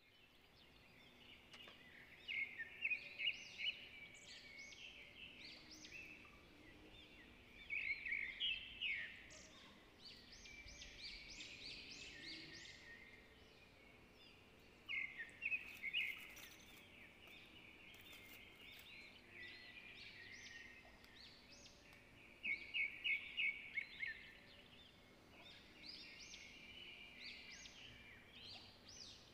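Faint bird calls: clusters of quick, high chirping notes recurring every few seconds over a faint steady low hum.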